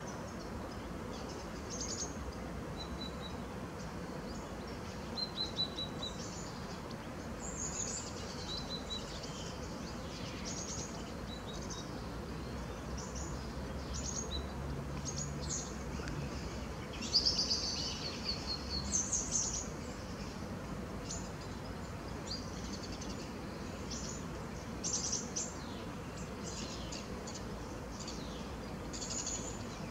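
Small birds chirping and calling, short high chirps and brief trills scattered throughout, a little louder about halfway through, over a steady low background rumble.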